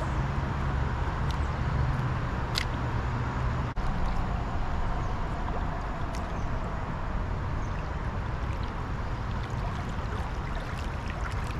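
Steady rush of flowing river current, with a constant low hum underneath.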